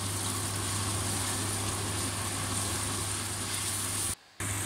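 Onion paste sizzling in hot mustard oil in a brass kadai as it is stirred with a steel spatula, over a steady low hum. The sound drops out for a moment near the end.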